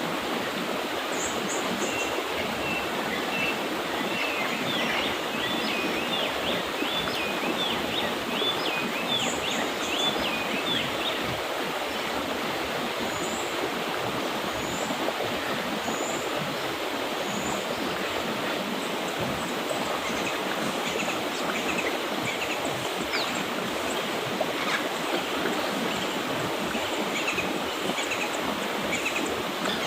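Mountain river water rushing steadily, with small birds singing over it: a warbling song from about two to eleven seconds in, and short high chirps scattered through the rest.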